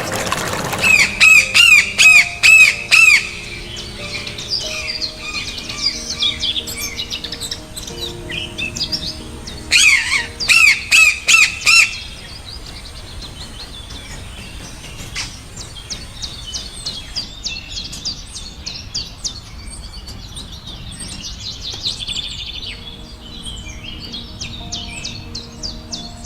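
Rainforest birds calling: two loud series of about six sharp repeated notes, about a second in and again around ten seconds, followed by many quieter, rapid chirps. Soft, steady background music runs underneath.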